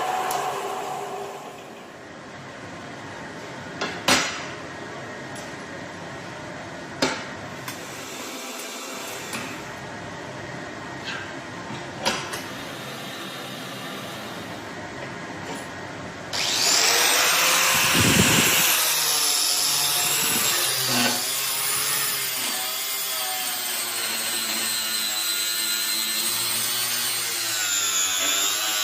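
Steady shop noise with a few sharp knocks. About halfway in, a power tool starts cutting or grinding loudly, its whine dipping and rising as it works.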